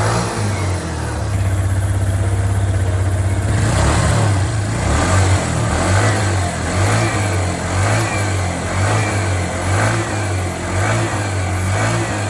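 Small moped scooter engine running. From about four seconds in, its revs rise and fall in regular pulses roughly once a second.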